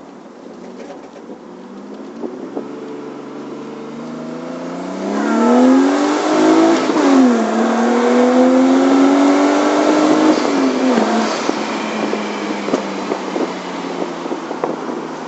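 Nissan Cefiro A31's RB25DET turbocharged straight-six accelerating hard, on the run where the owner reports a strange noise under acceleration. The revs climb from about two seconds in, drop sharply at a gear change around seven seconds, climb again, then fall away near eleven seconds and settle.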